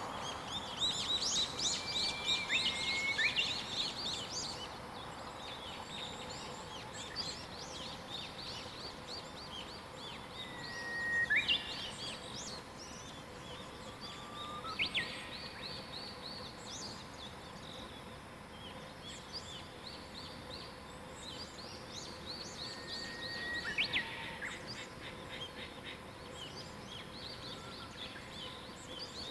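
Several wild songbirds singing in a morning chorus: fast high trills repeat throughout, and one bird gives a held whistled note that ends in a quick sweeping flourish, about four times, over a faint steady hiss.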